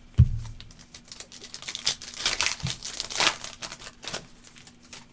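A single thump as it begins, then the crinkling and tearing of a basketball trading card pack's foil wrapper being ripped open and handled, in irregular crackly strokes.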